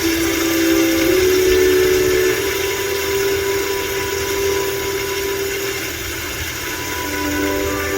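Steady rain falling, a continuous hiss. Over it comes a long held tone that steps up in pitch about a second in and fades after about six seconds, then returns briefly near the end.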